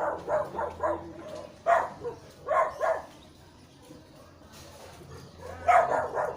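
Dog barking in short barks: a quick run at the start, a few single barks over the next couple of seconds, a lull, then another run of barks near the end.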